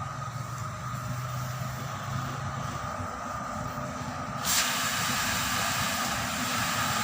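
A steady low mechanical hum, then about four and a half seconds in a loud hiss of air starts suddenly and keeps going.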